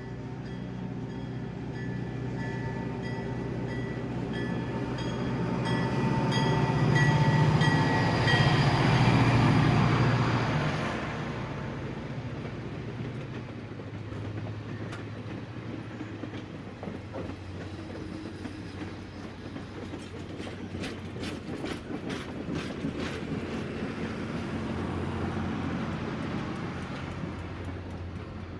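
Train sounds: a steady ringing multi-tone note over a rising rumble that swells loudest about seven to ten seconds in and then fades, followed by a continued rolling rumble with a run of clicking wheels over rail joints.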